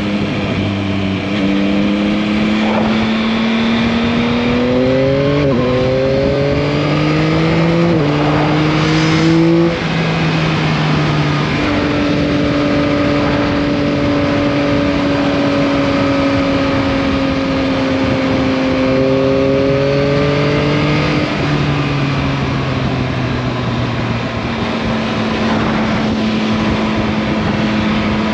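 Yamaha MT-09's 890 cc inline-three engine on the move: it accelerates through two upshifts, its pitch climbing and stepping down at each shift. About ten seconds in the throttle closes and the pitch drops, then it holds a steady cruise, rises briefly again near twenty seconds and settles, over a steady rush of wind and road noise.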